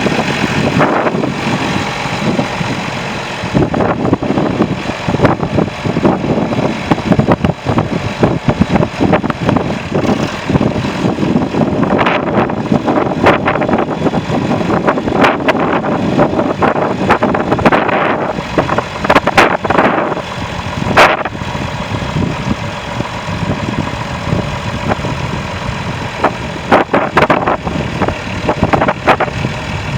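John Deere 4630 tractor's six-cylinder diesel engine running, with frequent short clicks and knocks over it.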